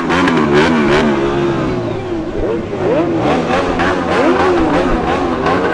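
Motorcycle engines running and revving, with several rising and falling sweeps in pitch as the bikes speed up and ease off.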